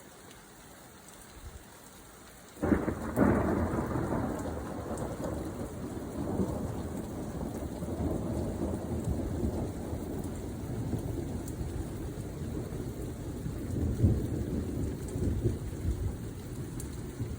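Thunder: quiet for the first couple of seconds, then a long low rumble breaks in suddenly about three seconds in and rolls on, swelling and easing, with a sharper loud peak about fourteen seconds in.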